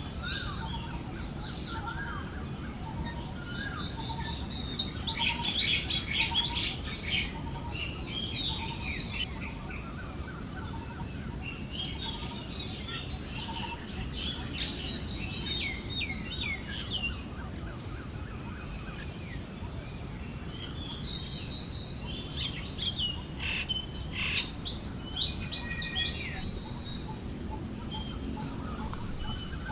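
Forest birds chirping and trilling over a steady high insect buzz and a low breeze-like hiss; the birdsong grows busiest a few seconds in and again near the end, and a soft note repeats about every half second for the first several seconds.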